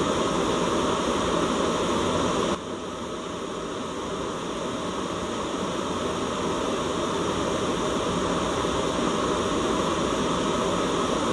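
Steady white noise with most of its weight in the lower range. About two and a half seconds in it suddenly dips in loudness, then slowly swells back over the next several seconds.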